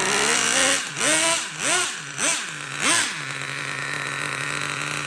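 Traxxas Revo 3.3 nitro RC truck's small glow-fuel engine being blipped: about five quick revs up and back down, then settling to a steady idle about three seconds in. It has just been tuned and runs cleanly enough for the owner to call the tune pretty good.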